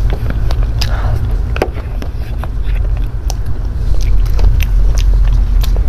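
Close-miked mouth sounds of a person chewing soft cake: scattered wet clicks and smacks, over a steady low rumble.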